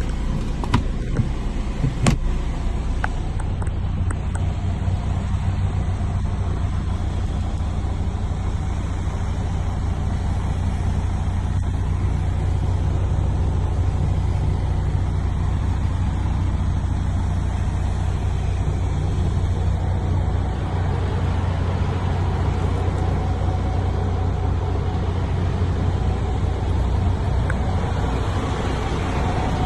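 MAN TGS 33.440 truck's diesel engine running steadily with a low, even rumble, with a couple of short clicks about two seconds in.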